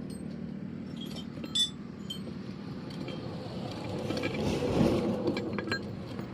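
Several light metallic clinks and taps, as of hand tools being handled during truck tyre puncture repair, over steady background noise that swells for about a second midway, like a passing vehicle.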